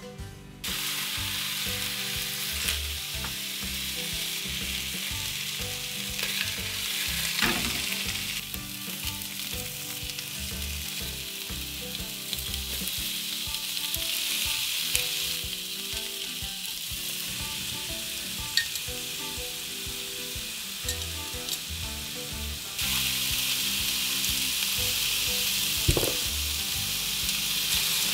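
Pork slices, then zucchini, shimeji mushrooms and deep-fried tofu sizzling in olive oil in a nonstick frying pan, with a few clicks of tongs against the pan. The sizzle starts about a second in and grows louder near the end, over faint background music.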